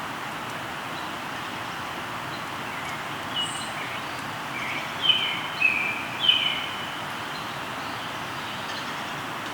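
A river flows with a steady rush while birds sing over it. Around the middle, a bird gives three short falling calls close together, the loudest sounds here.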